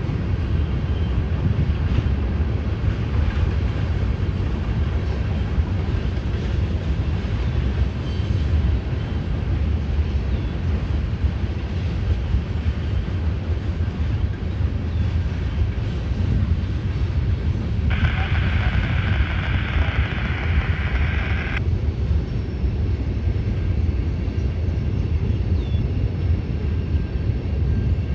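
Loaded iron-ore train rolling over a steel river bridge, a steady low rumble of the cars heard from across the water. A brief higher-pitched noise stands out for a few seconds about two-thirds of the way through.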